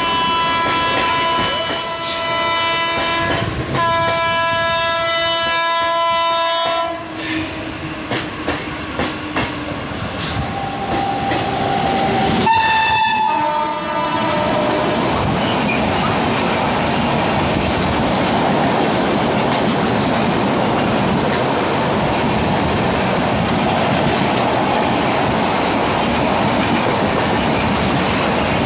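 WAP-7 electric locomotive hauling an LHB express sounds its horn in two long blasts and then a shorter one as it runs through the station at speed. From about halfway the coaches rush past in a steady, loud rumble with the clickety-clack of wheels over rail joints.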